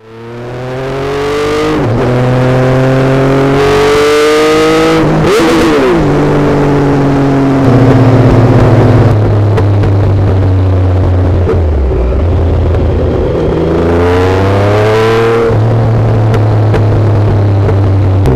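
Exhaust note of a Triumph 955 inline-three motorcycle engine accelerating hard: its pitch climbs, drops sharply at a gear change about five seconds in, and climbs and drops again near the end. Recorded through a plastic bottle that shields the mic from wind, so the vibrating plastic adds a fast buzzing rattle.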